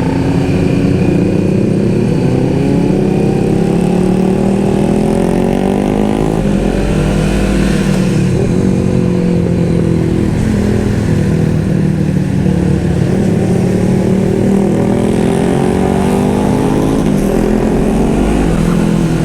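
Honda CBR500R's engine running under way at cruising speed, its pitch rising and falling gently with the throttle, over a steady rush of wind.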